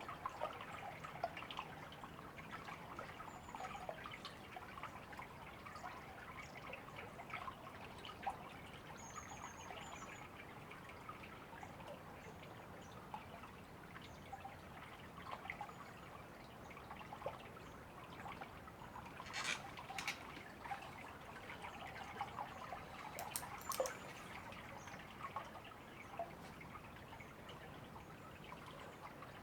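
River water trickling and babbling, with a few faint, short, high bird chirps scattered through it. A couple of sharp clicks stand out about two-thirds of the way through.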